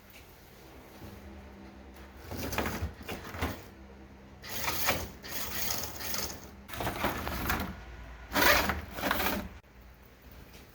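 Small electric motors of HO-scale slot cars whirring in about five short bursts of roughly a second each, the loudest near the end.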